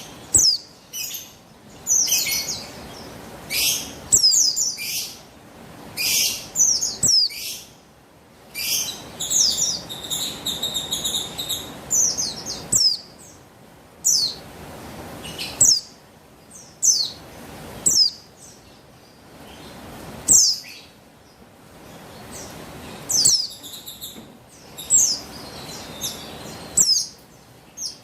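Female buxtoni white-eye (pleci) calling: short bursts of thin, high notes that sweep quickly downward, repeated every one to two seconds, with a longer twittering run about a third of the way in.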